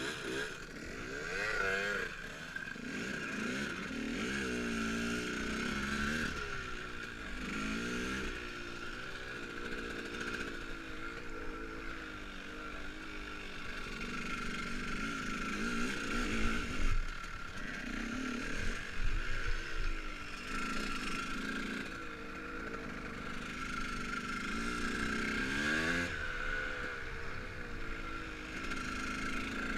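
KTM Freeride dirt bike being ridden off-road, its motor pitch rising and falling over and over as the throttle opens and closes, over a steady high whine. A few knocks from the bike over rough ground come in the middle.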